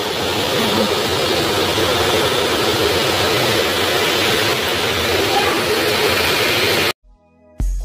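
Heavy rain falling and splashing on wet pavement: a steady hiss of rainfall. It cuts off abruptly near the end, and a beat-driven music track starts.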